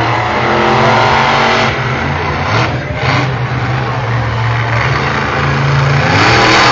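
Monster truck engine running loud with a steady low rumble, heard through a phone's microphone, with indistinct voices over it.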